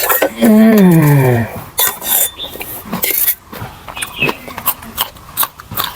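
Eating sounds from a mukbang: wet chewing and mouth noises with clinks of a utensil against the plate. About half a second in there is a short vocal sound falling in pitch.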